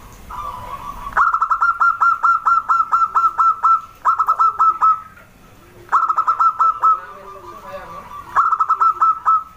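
Zebra dove singing: four runs of rapid, clipped notes, about five a second, each note dipping in pitch, with softer, lower coos between the runs.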